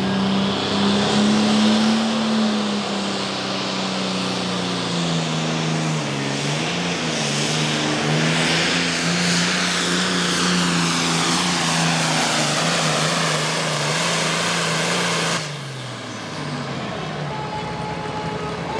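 Super Farm pulling tractor's diesel engine running hard at high revs under full load while it drags the sled, its pitch sagging briefly about six seconds in and then holding steady. About fifteen seconds in the throttle is chopped sharply and the engine winds down.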